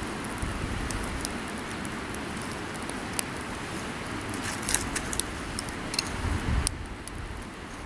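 Magnesium fire starter being scraped and struck to throw sparks onto tinder: scattered sharp metallic clicks and scrapes over a steady rushing background. The background drops away abruptly near the end.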